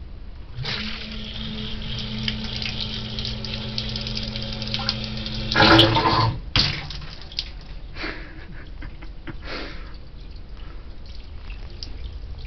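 Leaking sump pump switched on: its motor hums steadily while water sprays out of the leak with a hiss and splatter. About six seconds in the water surges loudest and the motor stops, leaving water dripping and splashing.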